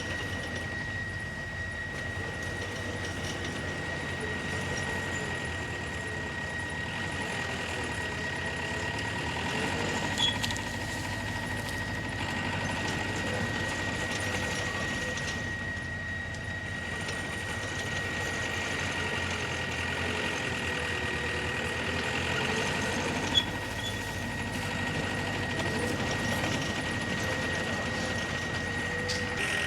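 Diesel engine of heavy earth-moving machinery running steadily, with a constant high-pitched whine over it. Two brief sharp knocks stand out, one about ten seconds in and another later on.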